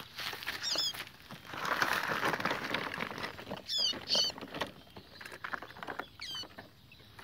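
Small songbirds chirping in short, quick high notes, four brief calls spread across a few seconds. Underneath is rustling and light pattering that swells for about a second and a half near the start.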